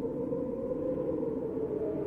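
Snowstorm wind howling steadily in a low, moaning tone, with no gusts or breaks.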